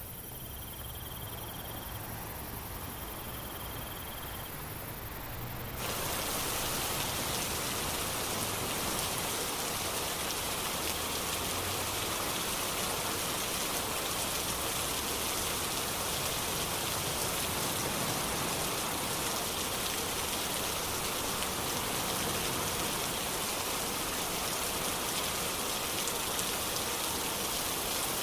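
Steady rain, an even hiss that sets in suddenly about six seconds in. Before it there is a lower rumbling noise with two long, even, high-pitched notes.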